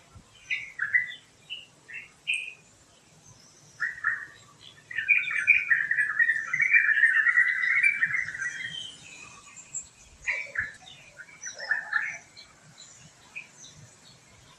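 Songbirds chirping and calling: short separate chirps at first, then a dense burst of chattering for about four seconds starting around five seconds in, then more scattered calls.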